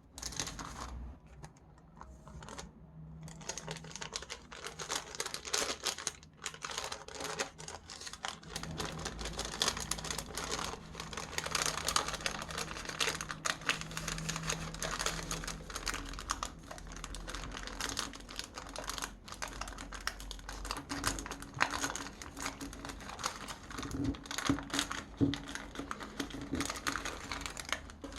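Sticker sheets crinkling as stickers are peeled off and handled, with many small taps and clicks.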